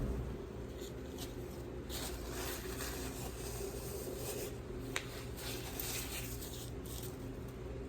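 Soft rustling and handling sounds in stretches, with one sharp click about five seconds in, over a steady low hum.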